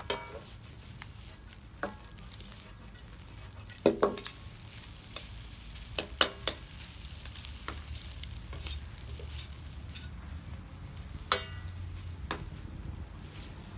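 Fried rice being stir-fried in a metal pan over a campfire: a spatula clanks against the pan every couple of seconds over a faint steady sizzle, and a few of the strikes ring briefly.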